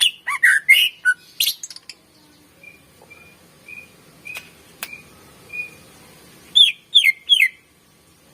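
Cucak ijo (green leafbird) singing. It opens with a burst of loud, rapid slurred whistles, follows with a run of soft, short, even piping notes, and gives three loud falling whistles about a second before the end.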